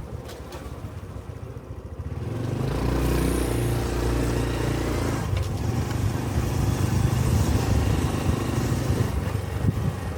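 Honda Cub 125 cc single-cylinder motorcycle engine, quiet for about two seconds, then revving up as the bike pulls away and running steadily under way, with road and wind noise.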